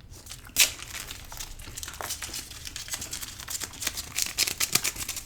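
Close crinkling and crackling: a sharp crackle about half a second in, then a dense run of small crackles and rustles.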